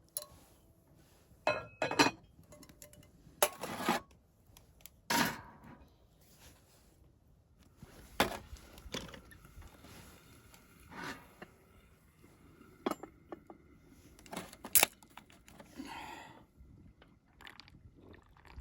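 A metal utensil clinking and knocking against a cast-iron skillet at irregular intervals, with a short stretch of scraping near the end, as the paella in it is stirred or served.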